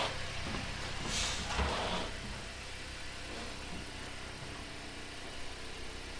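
VW Golf GTI Mk8's turbocharged 2.0-litre four-cylinder idling steadily. There is a short hiss about a second in.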